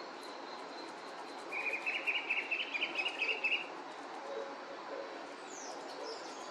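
A bird calls in a rapid run of short notes lasting about two seconds, starting about a second and a half in, with a few faint high chirps near the end.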